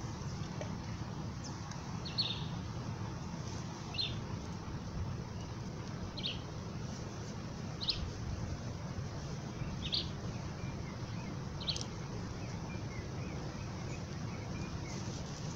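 A bird repeating a short, falling call about every two seconds, over steady low background noise, with faint twittering near the end.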